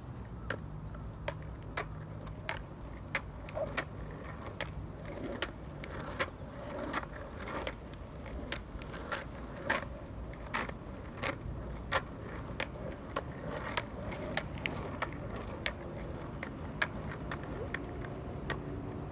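Skateboard rolling on pavement: a steady low rumble of the wheels, with a sharp click about every half second to second as the wheels cross joints in the paving.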